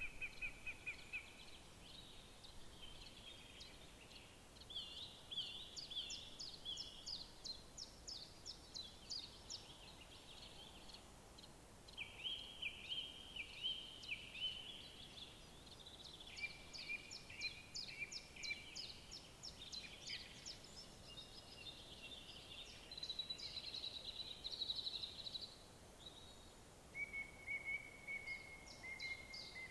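Several songbirds singing at once, with overlapping phrases of rapid high, sweeping notes and trills, over a faint steady background hiss.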